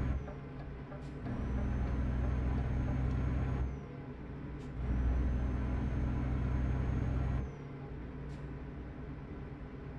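Truck engine running, heard from inside the cab: a low drone that swells louder twice for about two and a half seconds each and drops back in between, with a few faint clicks.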